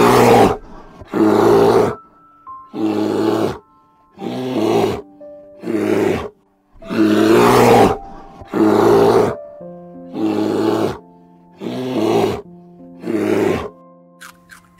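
Brown bear giving about ten loud, rough roaring growls in a steady series, one roughly every second and a half, over background music with held notes.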